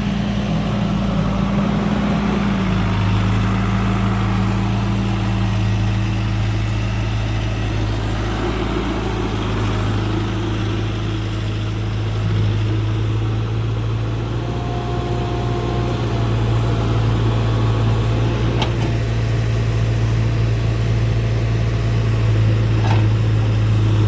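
Heavy farm-machinery diesel engine running steadily under load, its pitch dipping slightly about two seconds in.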